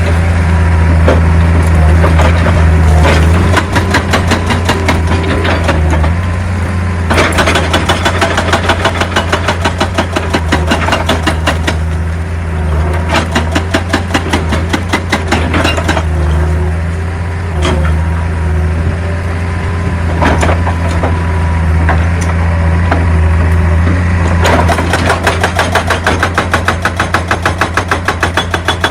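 Excavator's diesel engine running with a steady low drone. Over it, stretches of rapid, evenly spaced knocking come and go, with a few single louder knocks.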